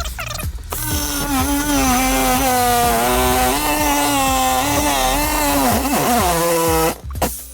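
Jigsaw with a metal-cutting blade cutting through a metal storm door. A steady motor whine starts about a second in, dips in pitch near the end and cuts off suddenly shortly before the end.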